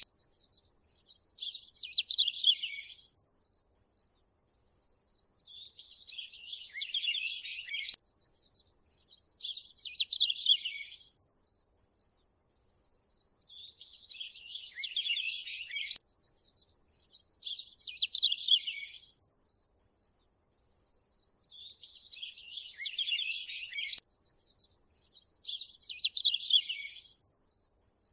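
Nature ambience: short bursts of bird chirping about every four seconds over a steady high insect hiss. The same stretch repeats every eight seconds, with a faint click each time it restarts.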